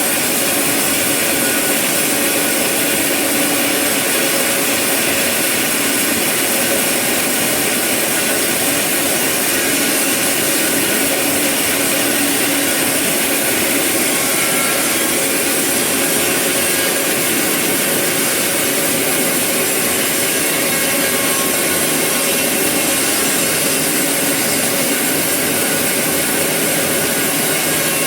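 Sawmill saw cutting through eucalyptus wood, a steady, continuous cutting noise with a faint whine.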